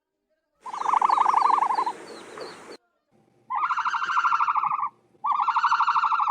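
Three bird calls, each a fast rattling trill at a middle pitch lasting a second or two, separated by short silent gaps.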